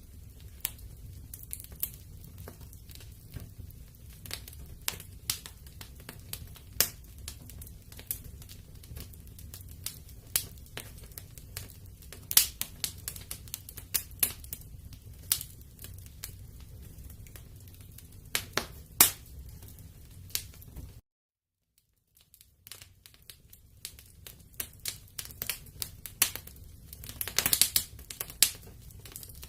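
Wood fire crackling in a fireplace: irregular sharp pops and snaps over a steady low rumble of the flames. The sound cuts out completely for about a second past the two-thirds mark, and a quick flurry of crackles follows near the end.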